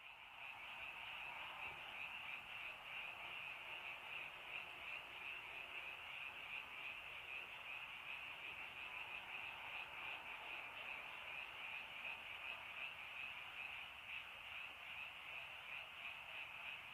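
Dense chorus of many frogs calling at once, a steady, even trilling with no breaks, over a soft hiss of rain.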